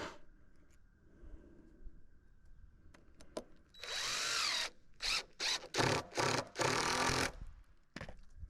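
Handheld power drill running, first in one longer burst with its motor pitch rising and falling, then in several short trigger bursts.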